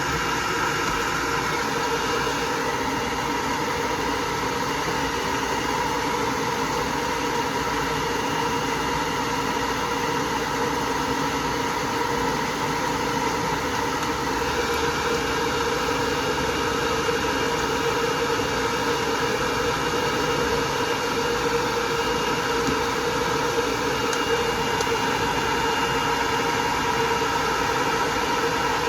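Electric hair dryer blowing steadily, a constant rush of air with a faint motor whine, as a dog is dried after washing.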